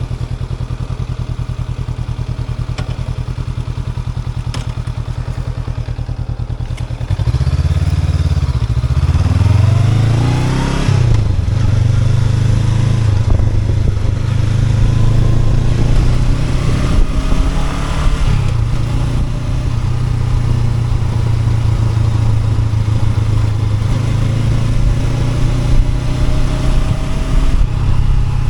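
Honda NX500's 471 cc parallel-twin engine idling steadily, then about seven seconds in it gets louder as the bike pulls away, rising in pitch in a couple of steps through the gears before settling into steady running at road speed.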